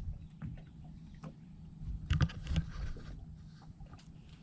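Scattered knocks and clatter of fishing gear being handled in a small boat, loudest in a short cluster about two seconds in, over a low steady rumble.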